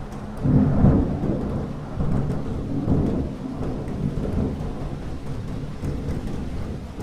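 Rolling thunder over steady rain: a deep rumble breaks about half a second in, loudest in the first second, swells again twice, then eases to a lower rumble.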